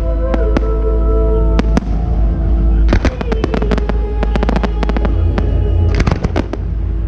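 Fireworks going off in rapid sharp bangs over the show's music, with dense volleys about three seconds in and again about six seconds in.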